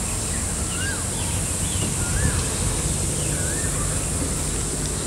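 A bird repeating a short rising-and-falling whistled call three times, about every second and a half, with smaller higher chirps between, over a steady high insect drone.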